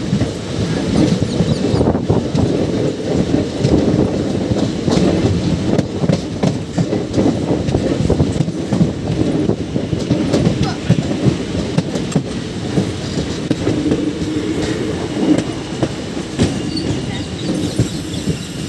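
Express passenger coach running along the track at speed, heard from its open doorway: a steady rumble of wheels on rail, shot through with quick clicks over the rail joints.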